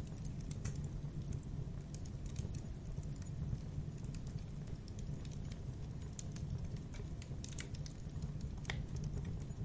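Campfire burning: irregular sharp crackles and pops from the wood over a steady low rumble, with one louder pop near the end.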